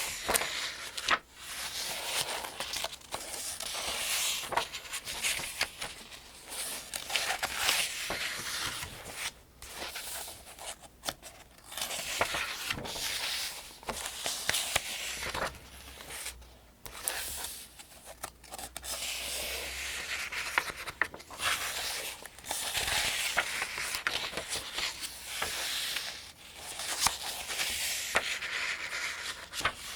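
Pages of the Farmers' Almanac being turned one after another at a steady pace. Each turn is a papery swish and rustle with small crisp snaps, and they come every couple of seconds.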